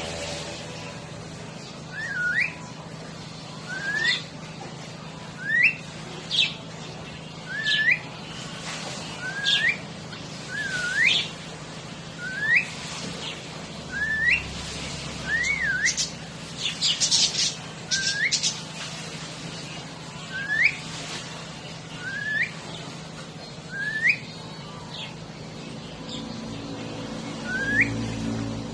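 Pet cockatiel whistling: a long string of short upward-sweeping whistles, one every second or two, with a brief flurry of higher chirps about two-thirds of the way through.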